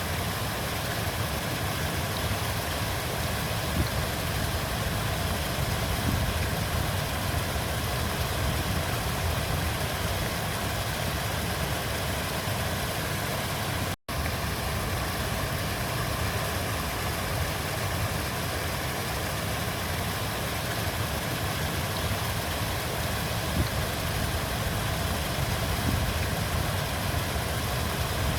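River water flowing, a steady low rushing. It cuts out for a split second about halfway through.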